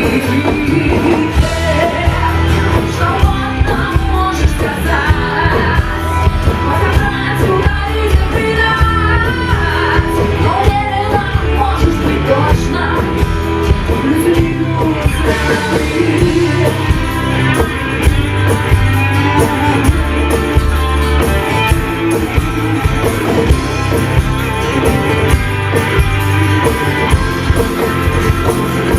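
Live rock band playing a song with a singer, electric guitar, bass and drum kit.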